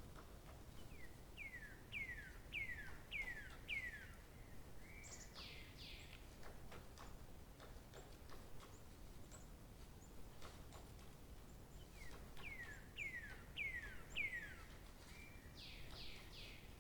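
A songbird singing the same phrase twice, about eleven seconds apart: a series of five clear notes, each sliding downward, followed by a short level note and two higher, sharper notes. A faint steady outdoor background noise runs underneath.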